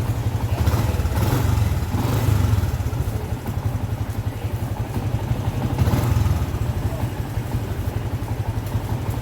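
Yamaha Sniper 150 motorcycle's single-cylinder engine running steadily with a low throb, swelling slightly a couple of times.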